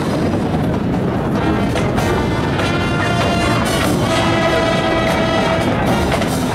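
High school marching band playing its halftime show: brass holding sustained chords over drumline percussion.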